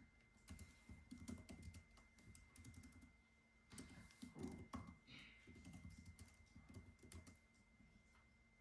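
Typing on a computer keyboard: quick irregular runs of soft key clicks, with brief pauses, thinning out near the end.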